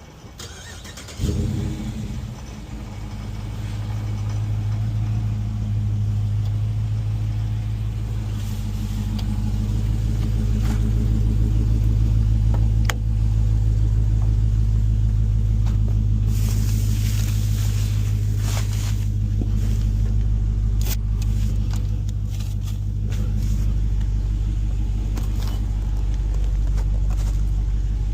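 A car engine starting about a second in, then running with a steady low drone that builds over the next few seconds and holds, like a car pulling away and driving.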